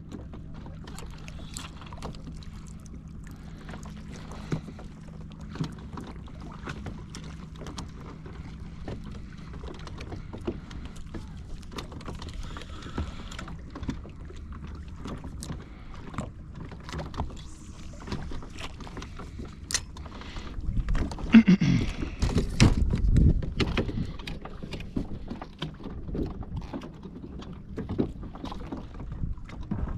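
Sounds of a fishing kayak on the water: many scattered small clicks and knocks over a low background. There is a louder rumbling stretch about two-thirds of the way through.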